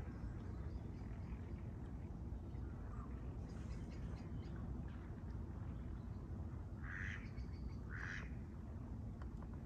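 Two short, harsh bird calls about a second apart near the end, over a steady low rumble.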